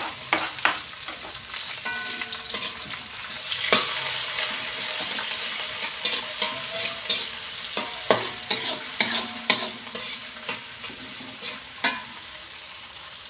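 Sliced shallots, garlic, tomatoes and chillies sizzling in hot oil in a wok, dropped in as the base seasoning. A metal spatula scrapes and knocks against the wok as they are stirred. The sizzling eases off in the second half.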